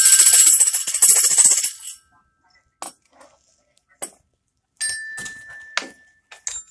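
A jingling toy rattle is shaken hard for about two seconds. A few light taps follow, then a small bell-like ding rings briefly about five seconds in.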